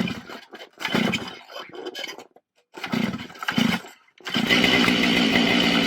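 Stihl MS500i fuel-injected two-stroke chainsaw being cold-started in subzero cold: several short bursts as the starter cord is pulled, then the engine catches a little over four seconds in and keeps running steadily.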